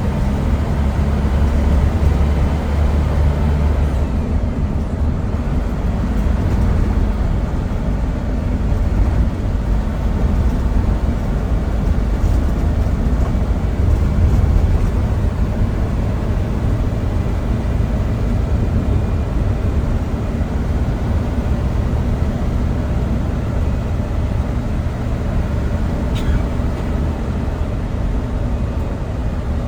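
Steady engine drone and airflow noise inside an airliner's passenger cabin in flight, a deep even rumble that does not change.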